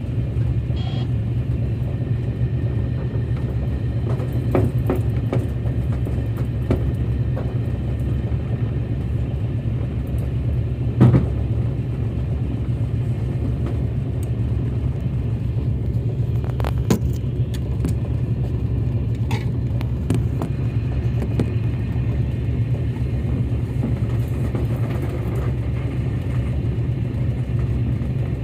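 Motor launch's engine running steadily with a low drone, and a few short knocks over it, the loudest about eleven seconds in.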